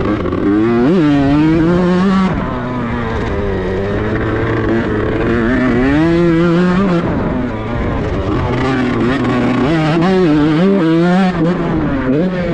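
Tuned two-stroke Kawasaki Ninja grasstrack motorcycle engine revving in repeated swells, its pitch rising and falling: a rev about a second in, a longer one around six seconds, and a quick run of short blips near the end.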